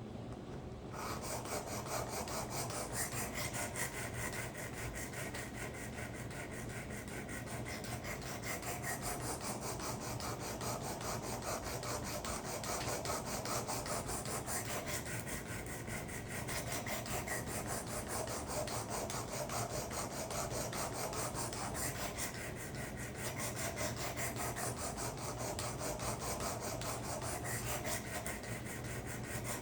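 Abrasive stone of a Work Sharp guided sharpener rasping along the steel edge of a karambit blade in repeated hand strokes, grinding metal off the edge. There are brief pauses between sets of strokes.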